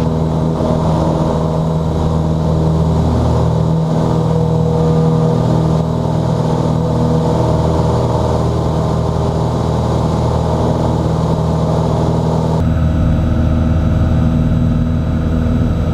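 Cessna 182's piston engine and propeller running steadily at full takeoff power during the initial climb, a loud, even drone heard from inside the cockpit. About three-quarters of the way through, the higher part of the sound abruptly drops away while the low drone carries on.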